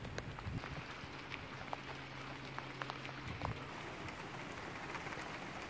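Light rain falling, a faint steady hiss with scattered drips.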